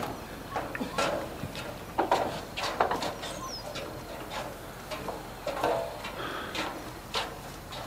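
Birds calling: scattered short chirps and calls, with a short falling whistle about two and a half seconds in.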